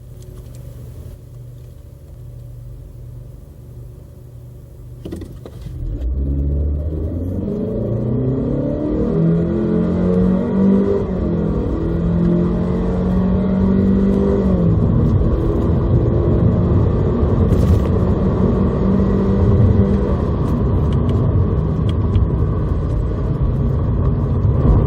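Honda Civic FK7's 1.5-litre turbocharged four-cylinder engine running quietly, then put to full throttle about five seconds in. Its note climbs and then holds at a steady pitch as the CVT keeps the revs up, and from about halfway through it blends into loud road and wind noise as speed builds.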